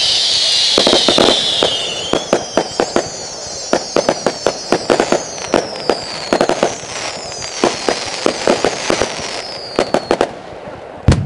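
Aerial fireworks going off: a rapid, irregular string of sharp bangs and crackles mixed with many high whistles that fall in pitch, then one louder bang with a deep boom near the end.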